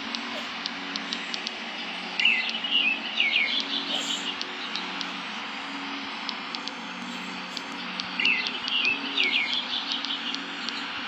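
A songbird singing a short, quick warbled phrase twice, about six seconds apart, over a steady low hum.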